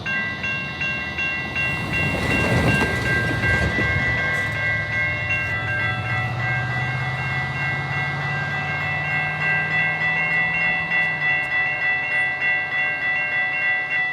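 Amtrak passenger train arriving past a grade crossing, with the crossing's warning bells ringing in a steady, evenly pulsing pattern throughout. Under the bells the diesel locomotive's engine runs low, and a rush of train noise swells briefly a couple of seconds in.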